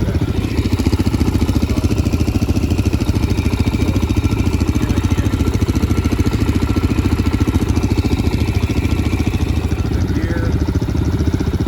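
Dirt bike engine running steadily close by: a fast, even putter that holds one pitch without revving up or down.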